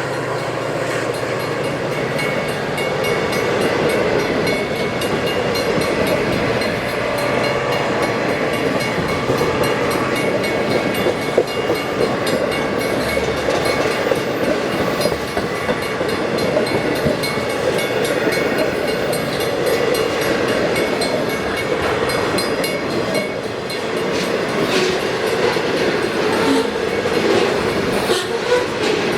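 Cars of a continuous welded rail freight train rolling steadily past on the track.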